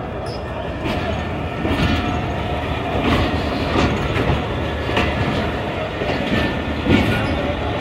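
Pakistan Railways passenger coaches rolling slowly past on departure, the steady rumble of the wheels broken by sharp clacks over the rail joints about once a second.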